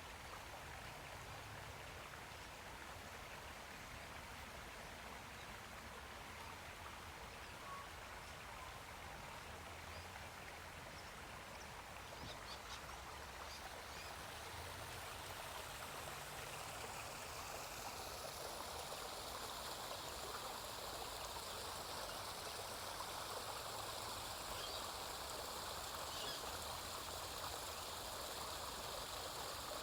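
Running water from a garden stream or small waterfall, a steady rushing hiss that grows louder over the second half as it comes closer.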